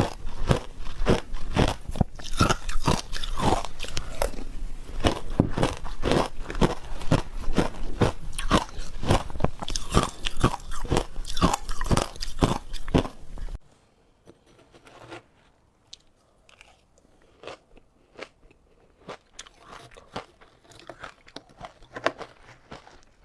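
Ice being bitten and chewed: rapid, loud crunches, several a second, that drop suddenly to much quieter, sparser crunching about two-thirds of the way through.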